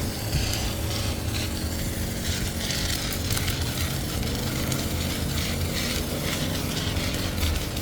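Car-wash spray hissing against the car body in uneven gusts over a steady low hum from the wash equipment.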